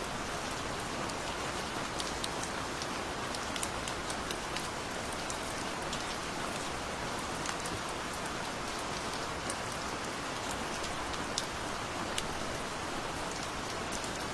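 Steady gentle rain: an even hiss of rainfall with scattered sharp drips and drop ticks over it.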